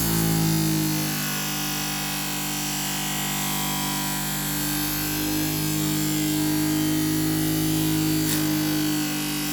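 Electric knife-and-scissor sharpening machine running with a knife blade held to its 400-grit abrasive paper: a steady motor hum under a grinding hiss, the hum wavering slightly in pitch as the blade is worked.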